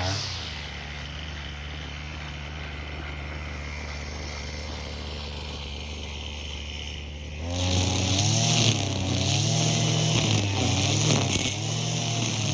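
Brush cutter engine with nylon trimmer line, idling steadily, then throttled up about seven seconds in; at full speed its pitch rises and dips repeatedly as the spinning line cuts through weeds.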